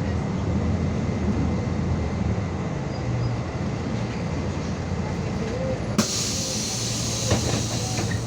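MAZ 216 city bus under way, heard from inside: a steady engine drone with road noise. About six seconds in, a sudden hiss of released compressed air starts and lasts about two seconds, with a sharp click partway through.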